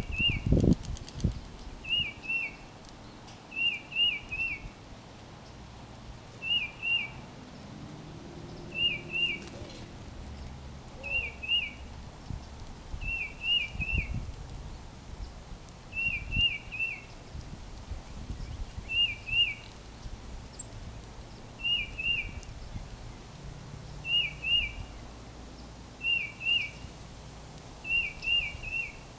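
A songbird singing the same short phrase over and over, two or three quick slurred whistled notes each time, repeated about every two seconds.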